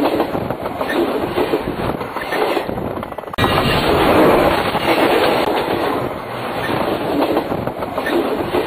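Railway cars rolling directly overhead, their wheels clattering and rumbling on the rails. The sound changes abruptly and gets louder about three and a half seconds in.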